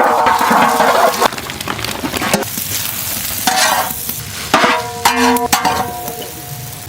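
Food frying and sizzling in a pan while it is stirred, with a utensil scraping and clicking against the pan. A loud sound with steady ringing tones fills the first second, and shorter scraping bursts come about halfway through.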